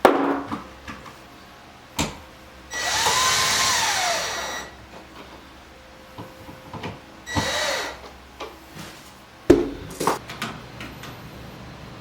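A handheld power drill runs twice, each time spinning up and winding back down: a longer run of about two seconds and a shorter one near the middle. Sharp knocks and clicks of tools and hardware come at the start, at about two seconds in and again near the end.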